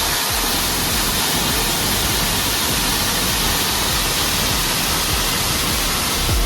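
Waterfall in monsoon flow, its falling water making a steady, even rush.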